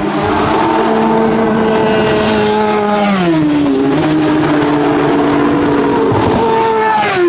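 Race superbike engines at high revs going past. The engine note drops sharply about three seconds in and again near the end.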